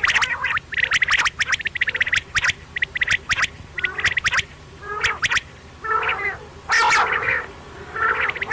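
Quail calling: quick series of sharp clicks and raspy notes, repeated in bursts with short gaps between them.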